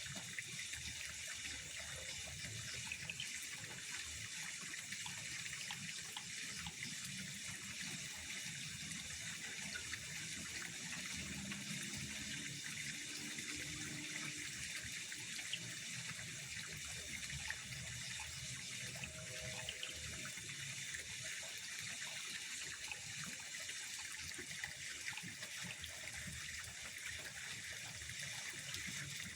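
Steady, unbroken running and trickling of water at a pond.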